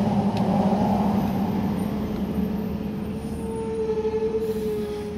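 A motor vehicle's engine running with a steady low hum that slowly fades, joined about two seconds in by a thin steady whine.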